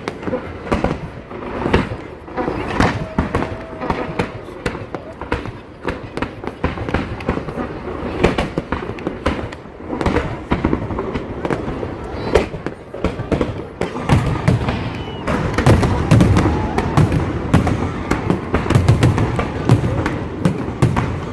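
Fireworks display with shells bursting and crackling in quick succession, building to a denser run of heavy, deep booms from about two-thirds of the way through.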